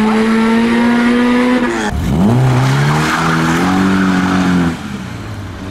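A car accelerating hard: the engine revs climb steadily, break off about two seconds in at a gear change, then climb and hold again before the driver backs off near the end.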